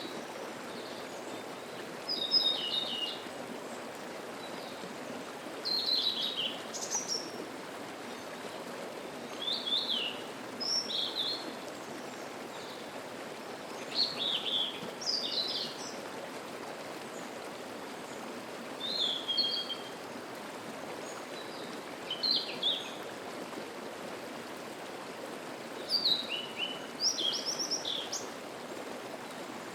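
Steady rushing of a mountain stream, with a songbird singing short, quick phrases of high notes every three to four seconds over it.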